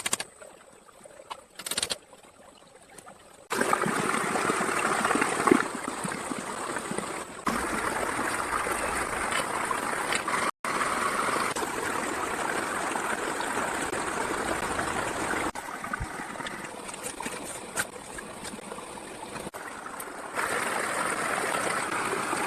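Flowing stream water running and trickling steadily. Its level and character change abruptly at several cuts.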